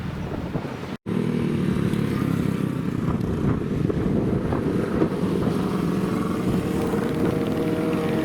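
Motorcycle engine running, with a brief cut-out about a second in, after which a steady engine note continues and rises slightly in pitch near the end.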